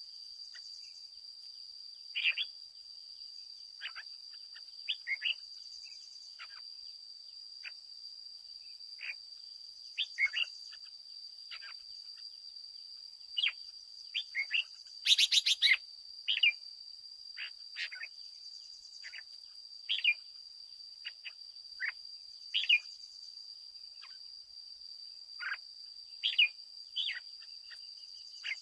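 Red-whiskered bulbul singing in short whistled phrases every second or two, with one louder burst about halfway through, over a steady high-pitched whine.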